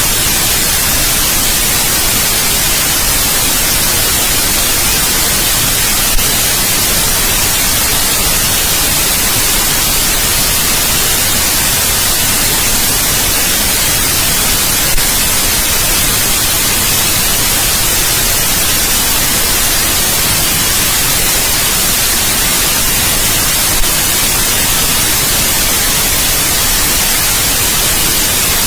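Steady white noise, an even hiss with no change in level, broken only by three brief faint ticks about six, fifteen and twenty-four seconds in.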